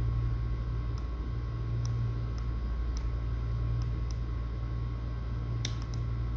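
Steady low hum with a faint constant tone above it, and light clicks every second or so, like taps or clicks while editing.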